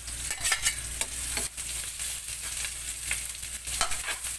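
Chopped ginger, onion and garlic sizzling in hot oil in a stainless steel wok, with a steady hiss. A spatula scrapes and clinks against the metal several times as the aromatics are stirred.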